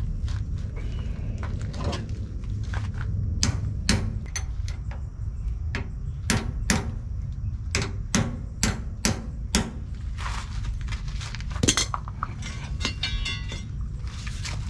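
A heavy hammer striking steel parts of a backhoe swing cylinder in an irregular series of sharp blows, some in quick pairs, over a steady low rumble.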